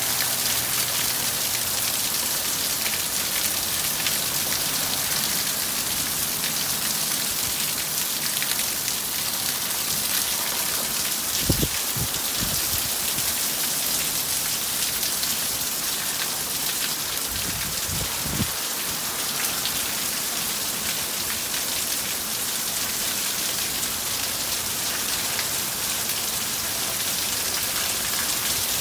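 Heavy rain falling steadily in a downpour, an even hiss throughout. A few brief low thumps come about twelve seconds and eighteen seconds in.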